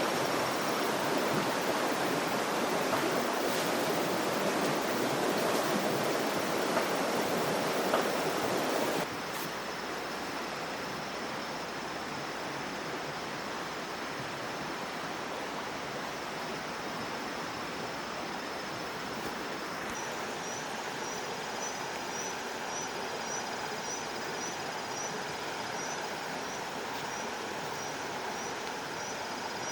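Steady rushing noise like flowing water, dropping suddenly to a quieter hiss about nine seconds in. In the second half a faint high chirp repeats about twice a second.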